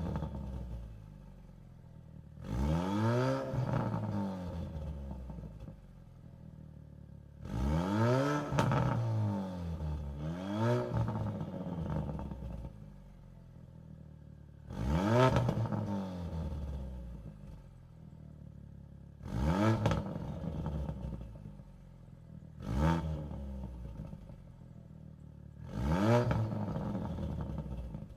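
Ford Focus RS with a Precision turbo and a 3.5-inch turbo-back exhaust through a Vibrant muffler, being free-revved. There are about seven quick blips of the throttle, each rising sharply in pitch and falling back, with the engine idling lower in between.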